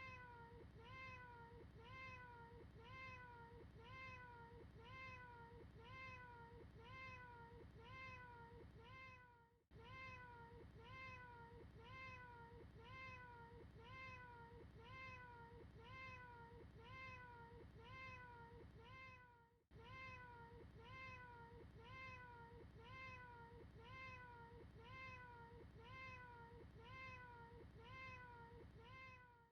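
A faint, short cat meow repeated over and over in a tight loop, about two a second, with a brief dip and restart about every ten seconds.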